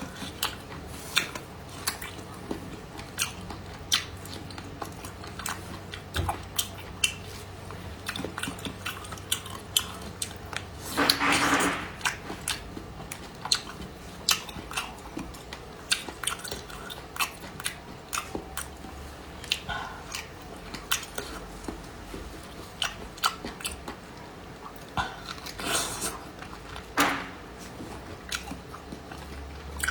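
Close-up chewing and biting of fatty stewed cured pork: a steady run of short wet mouth clicks and smacks, with a louder, longer wet sound about eleven seconds in.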